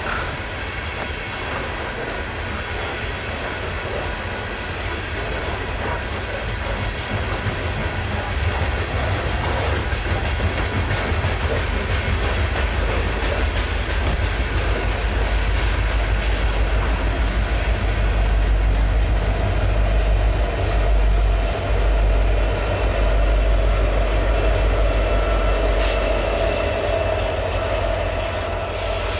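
Freight train cars rolling past with a steady low rumble and wheel clatter, getting louder toward the middle. About two-thirds of the way through, a steady high wheel squeal joins in.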